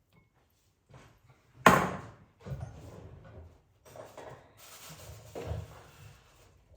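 A sharp knock about two seconds in, then irregular kitchen handling noises: light clattering and rustling, with a brief hiss near the end.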